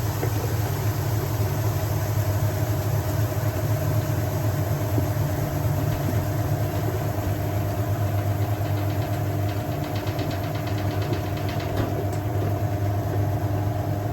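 Hoover 1400 heavy duty top-loader washing machine in its final spin, with motor and drum running at a steady speed and a steady low hum. The spin is fast, which the owner thinks is about 550 to 600 rpm.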